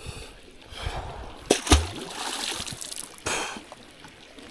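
Water splashing, with two sharp knocks close together about a second and a half in.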